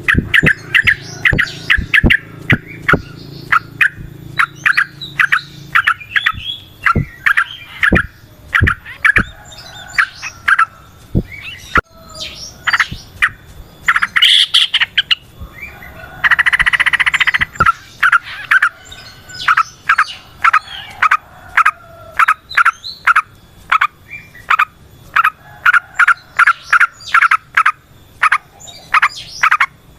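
Yellow-vented bulbul (trucukan) singing a long, rapid run of short, quickly repeated notes, with a dense buzzy chatter lasting about a second and a half past the middle. A low hum sits under the first few seconds.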